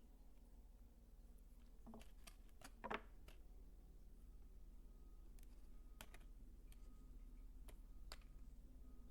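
Faint, scattered clicks and taps of soap being handled, with one louder crunch about three seconds in.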